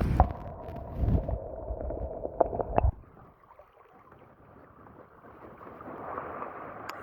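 Wind buffeting the microphone in gusts, with a few clicks, for about three seconds, then dropping to a faint steady background.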